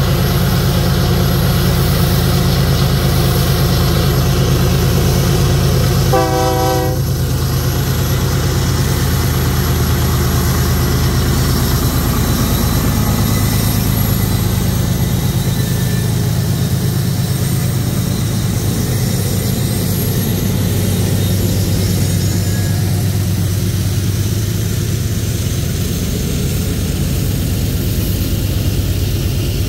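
GE ES44AC diesel freight locomotives running as they approach and pass, with one short horn blast about six seconds in. Later the covered hopper wagons roll past steadily.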